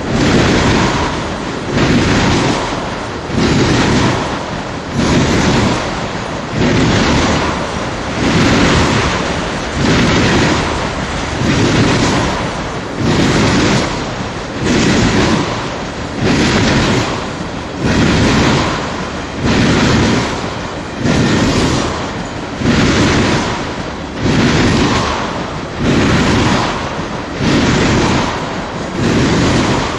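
Freight train of tank cars rolling past close by: a loud rush of wheels on rail that swells and eases in an even beat about once every second and a half, one swell for each passing tank car.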